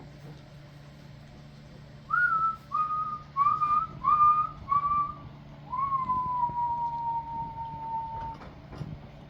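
A man whistling: five short notes, then one long held note that slowly slides down in pitch.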